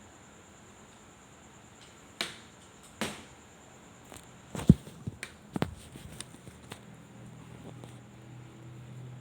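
A few sharp knocks and clicks, two about a second apart and then a quicker cluster with the loudest knock about four and a half seconds in, over a faint steady high whine.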